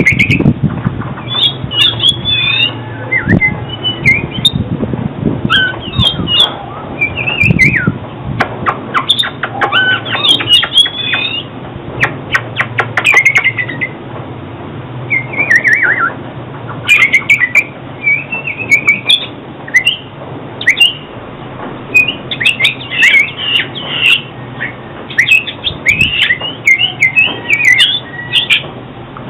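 Oriental magpie-robin singing: varied whistled phrases that glide up and down, mixed with quick sharp notes, coming in bursts with short pauses.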